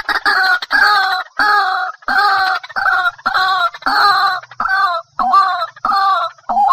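White-breasted waterhen calling: a loud, harsh note repeated over and over, about one and a half notes a second.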